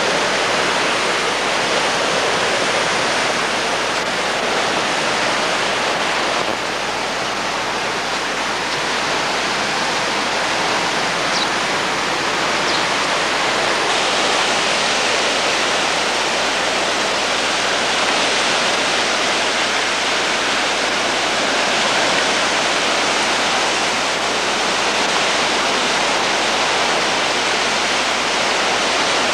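Flash-flood water rushing steadily down a wadi channel.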